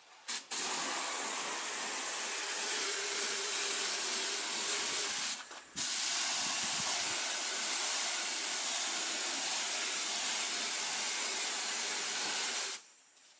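Paint spray gun hissing as it sprays acrylic paint, in two long passes with a short stop about five and a half seconds in. The hiss cuts off near the end.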